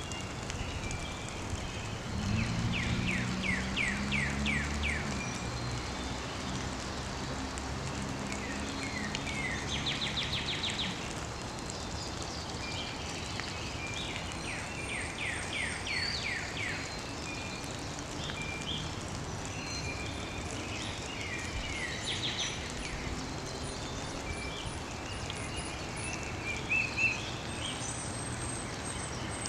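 Songbirds singing: several phrases of quick, down-slurred whistled notes repeated in rapid series, over a steady outdoor hiss. A low hum sounds faintly from about two to six seconds in.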